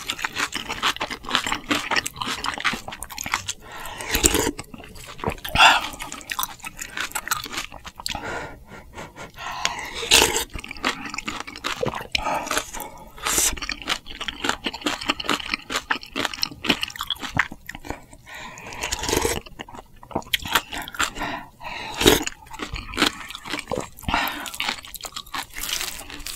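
Close-miked mouth sounds of a person eating: chewing and crunching in an irregular run of short, sharp bites.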